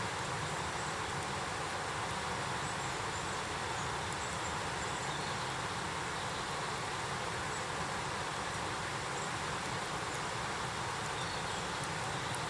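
Steady rushing noise with a few faint, sparse ticks.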